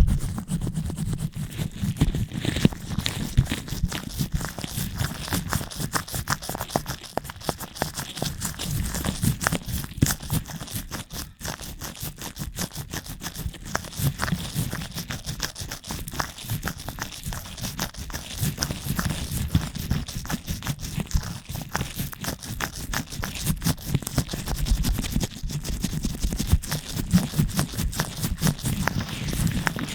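Latex-gloved fingers rubbing and scratching directly on a microphone: a dense, irregular run of crackles and scrapes over a deep rumble.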